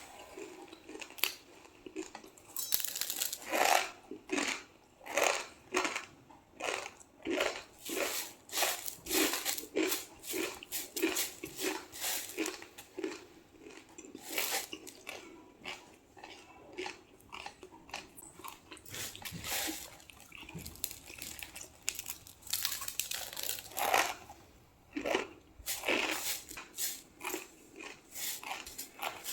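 Crisp pani puri shells crunching as they are bitten and chewed, a run of crackly crunches about one to two a second, with a few louder bites near the end.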